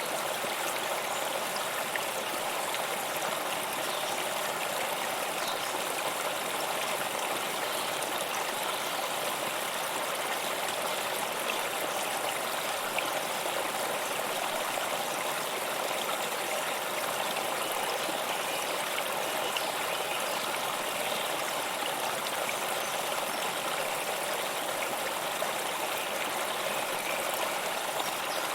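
Flowing stream water, a steady babbling and trickling rush with small splashes scattered through it.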